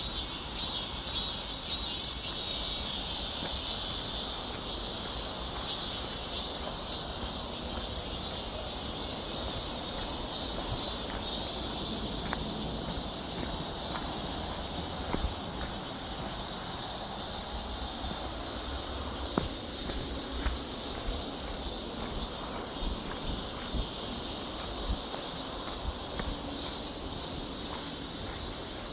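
Insects chirping in a high-pitched chorus, pulsing rapidly through the first half and settling into a thinner, steady very high buzz later, with a low rumble underneath and a few faint clicks.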